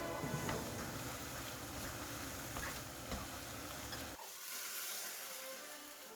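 Steady noisy hiss of black-bean noodles cooking in a pot, with faint background music. The low rumble drops out abruptly about four seconds in.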